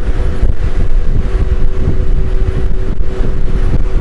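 Honda Goldwing GL1500 motorcycle riding at speed, heard through a camera mounted under the bike: loud, fluttering wind rush and road rumble with a steady hum.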